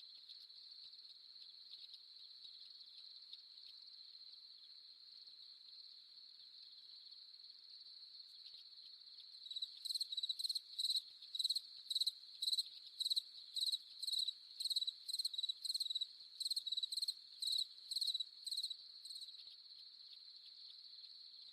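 Crickets trilling in a steady high-pitched chorus. From about halfway through, a nearer one chirps loudly in an even series of about two chirps a second for roughly nine seconds, then stops.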